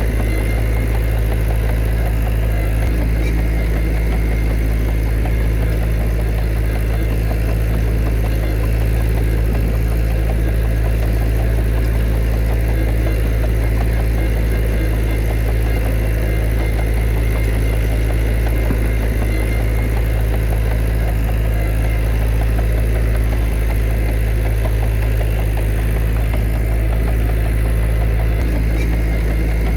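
Heavy diesel engine of earthmoving machinery running steadily at a constant, low-pitched drone, with no revving or impacts standing out.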